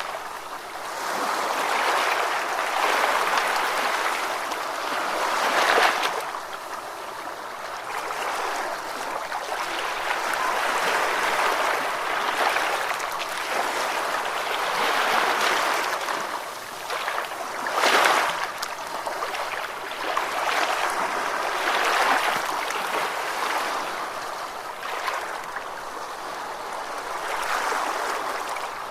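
Ocean waves washing in: a continuous rush of surf that swells and fades, with sharper breaks about six and eighteen seconds in.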